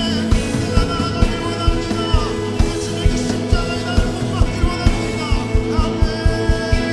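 Contemporary worship band music: a voice singing a melody over sustained chords and a steady drum beat.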